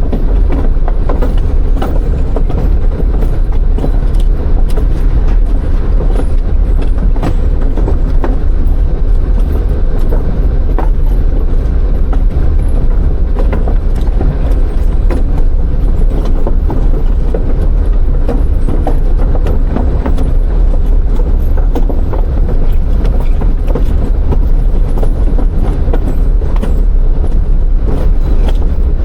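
A Jeep's tyres rumbling and clattering over the wooden plank deck of a converted railroad bridge, heard through open windows: a loud, steady low rumble with frequent knocks as the planks shift under the wheels.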